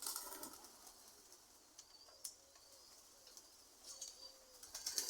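Domestic pigeons cooing softly, a scatter of faint low coos.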